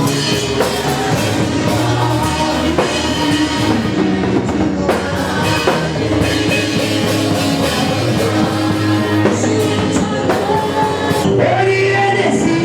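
Gospel worship music from a band led by a drum kit, with a voice singing over it, most clearly near the end.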